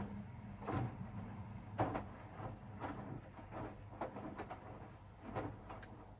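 Hoover DXOA610AHFN-80 washing machine tumbling a load of bed linen in the wash: a steady motor hum with irregular thuds and sloshes from the laundry and water turning in the drum, dying away near the end as the drum slows.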